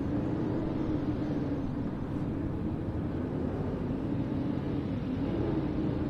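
Blizzard wind blowing steadily, a low rumble with a faint howling tone that wavers slightly in pitch.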